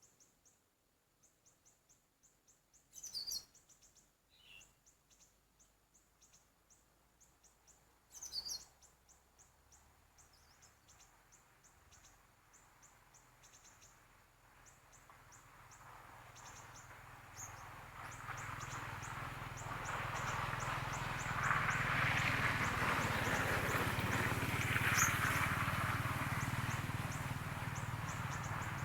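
A small bird chirps in a long run of short, high notes, several a second, with two louder calls sweeping down in pitch about 3 and 8 seconds in. From about halfway, a steady hiss with a low hum swells up and grows louder than the chirps.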